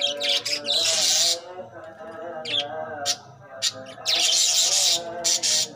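A flock of budgerigars chirping and chattering, with two loud spells of dense, sharp chirping: one about a second in and one about four seconds in.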